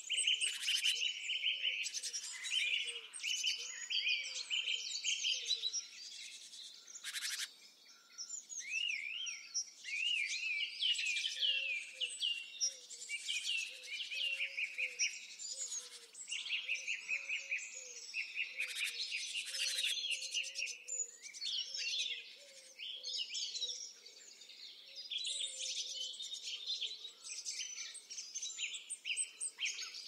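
Birds chirping and calling continuously, many quick high chirps and short whistles overlapping, with a fainter run of lower repeated calls underneath.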